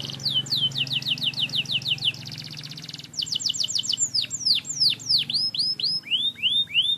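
Domestic canary singing: quick runs of falling whistled notes, about five a second, broken by a fast buzzy trill about two seconds in, then slower, longer swooping notes and a few arching ones near the end.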